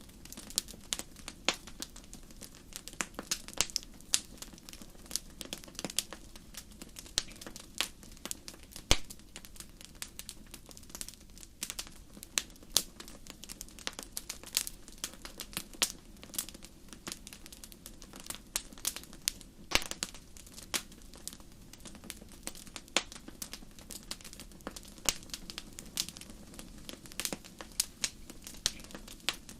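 Wood fire burning in a fireplace: irregular sharp crackles and pops, several a second, over a steady low hiss of the flames.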